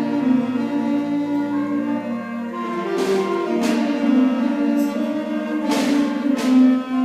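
Student concert band playing slow, sustained chords, with four struck percussion accents that ring up into the highs in the second half.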